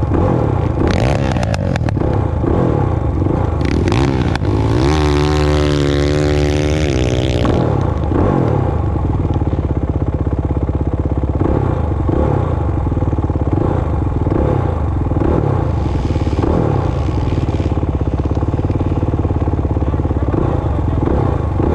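Dirt bike engine running continuously, its speed rising and falling, with a stretch of high revs climbing in pitch from about five to seven and a half seconds in. Sharp clattering knocks in the first few seconds.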